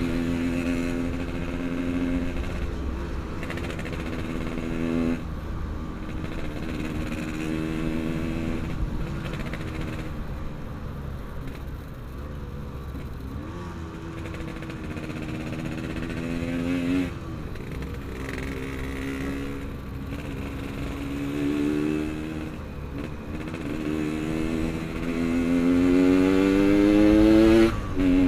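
Yamaha RX-King's two-stroke single-cylinder engine running on the road, rising in pitch under throttle and dropping sharply at gear changes about five, seventeen and twenty-eight seconds in.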